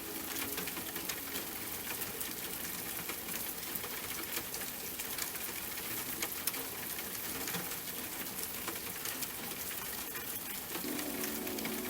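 Steady rain with a dense patter of small drop ticks. Soft, slow music comes back in near the end.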